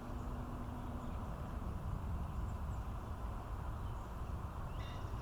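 Steady low rumble of outdoor background noise, with a few faint high chirps near the end.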